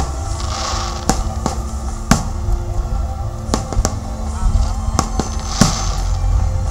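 Aerial fireworks bursting: about ten sharp bangs at uneven intervals, some followed by a crackling hiss, over a steady low rumble.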